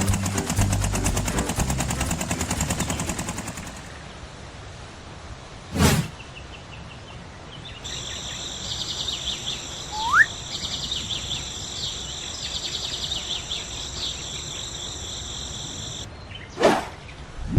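A fast rhythmic mechanical clatter fades out in the first few seconds, then a whoosh. A steady, high, pulsing chirp like insects runs for about eight seconds, with a short rising whistle partway through, and a second whoosh near the end.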